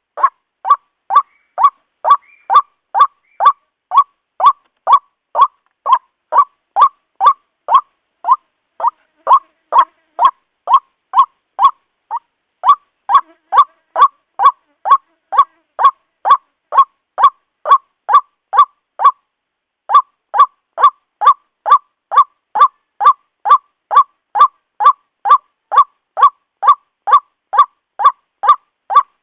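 White-breasted waterhen lure call: the same short, harsh note repeated about two times a second, with two brief breaks, one about twelve seconds in and one a little past the middle.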